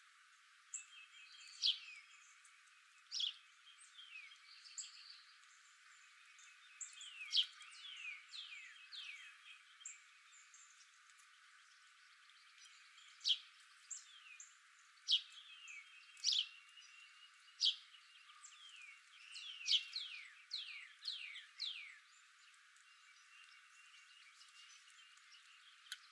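Small birds calling: a scatter of short, high, downward-sweeping chirps, several in quick succession around two-thirds of the way through, over a faint steady high tone.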